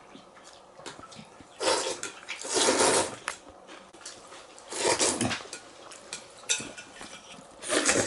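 Noodles being eaten from a large basin: chopsticks clattering against the bowl, with eating noises in about four short bursts.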